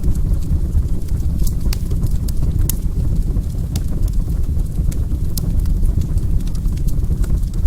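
Wood fire crackling in a fireplace: a steady low rumble with irregular sharp pops and snaps, a few of them louder, scattered throughout.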